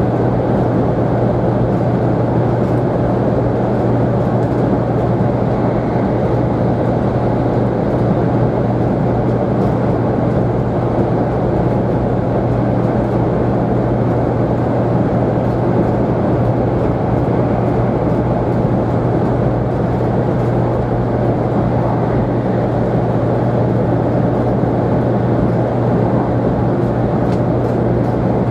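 Sanyo Shinkansen 500-series train running at speed, heard inside the passenger cabin: a steady, loud rumble with a constant low hum.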